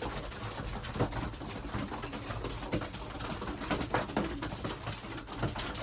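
Racing pigeons in a loft, cooing softly amid many scattered small clicks and taps.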